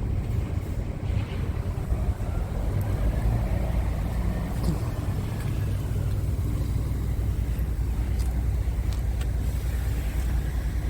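Scania R tractor unit's diesel engine running steadily, a low, even rumble with a few light clicks.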